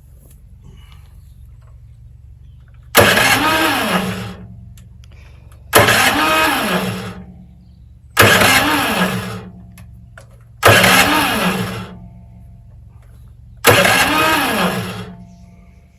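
A brand-new petrol garden shredder's small engine being cranked five times, about every two and a half seconds. Each time it whirs up and dies away without catching: the engine is failing to start. A steady low hum runs underneath.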